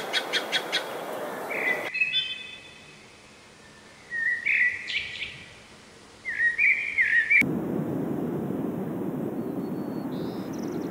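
Songbirds calling in a few short chirping phrases, about two, four and six seconds in. Near the middle the sound cuts to a steady low rushing noise with a faint high chirp.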